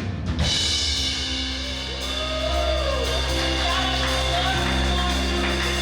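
Live worship band music: a drum hit ends the drumming in the first half second, then sustained held chords ring on with a gliding melody line over them.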